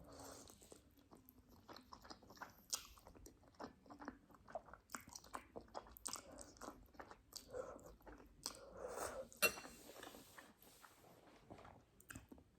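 A person chewing mouthfuls of instant ramen noodles close to the microphone, with many small irregular mouth clicks.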